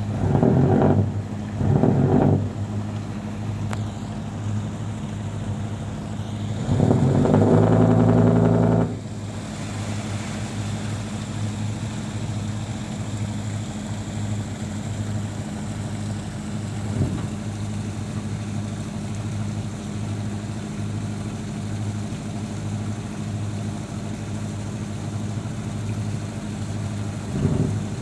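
Wooden fishing boat's engine running steadily at low speed, surging louder for a couple of seconds around seven seconds in as it is throttled up during manoeuvring.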